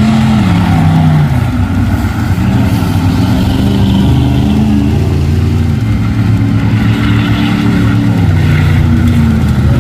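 Mud-bog truck engine running loud and revving, its pitch climbing and falling several times.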